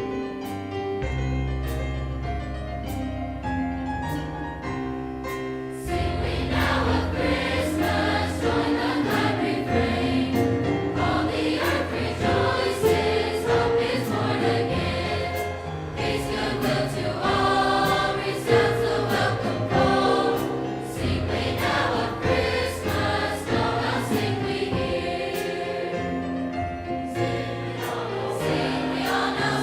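A large high school choir of around 200 voices singing a Christmas song with piano. The first few seconds are piano alone, and the full choir comes in about six seconds in.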